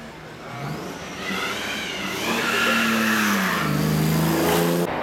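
Vintage sports car engine accelerating hard as the car drives up the hill climb and passes close by. It grows louder with a rising pitch, then drops in pitch and holds, and cuts off suddenly near the end.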